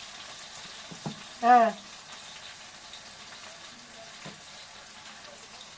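Onions frying in a pot, a steady low sizzle. A sharp click comes about a second in, and a person calls out one short word just after.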